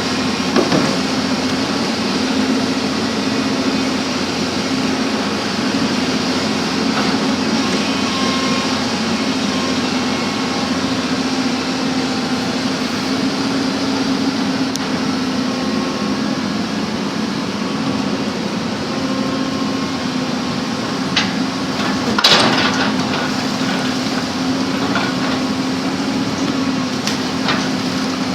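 Backhoe's diesel engine running steadily, with a few sharp knocks over it near the end, the loudest a little past two thirds of the way in.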